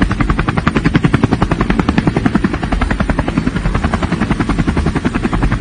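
Helicopter rotor blades chopping in rapid, even beats over a steady low engine rumble.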